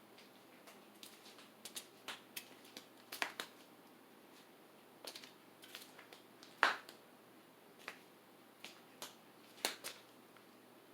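Faint, irregularly spaced clicks and ticks over quiet room hiss, the loudest about two-thirds of the way through.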